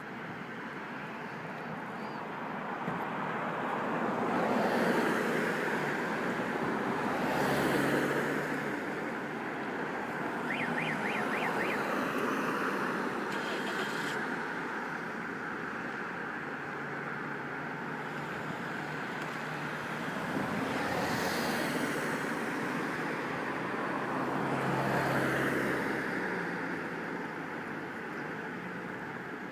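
Road traffic: steady traffic noise with cars passing by, swelling up and fading four times. A short run of faint high chirps comes about eleven seconds in.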